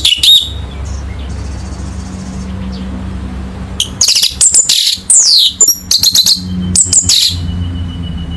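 Orange-headed thrush singing: a short burst at the start, then after a pause a loud run of rapid phrases with descending whistles and sharp notes lasting about three seconds. A steady low hum runs underneath.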